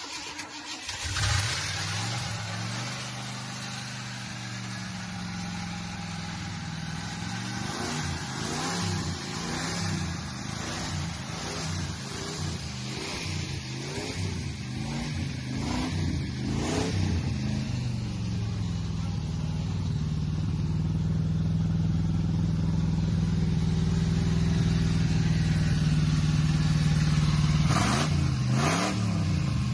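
1977 Ford truck engine catching about a second in and running, revving up and down repeatedly, then held at a steady higher speed, with a few quick revs near the end. It is running on fuel poured into the carburetor bowl.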